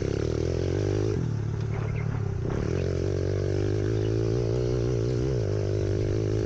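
Pit bike engine running under a rider, its pitch rising and falling with the throttle, easing off briefly about a second in and again around two and a half seconds in.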